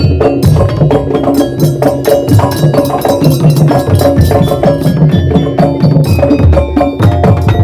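Daul Madura percussion ensemble playing fast, loud, driving music: heavy drum beats under rapid strikes on wooden and pitched metal percussion, amplified through a sound system.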